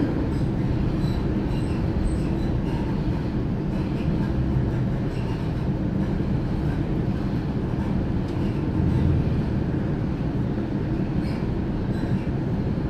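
Inside a Sydney Trains Millennium (M set) electric train carriage running at speed: a steady low rumble of wheels on rails and running gear.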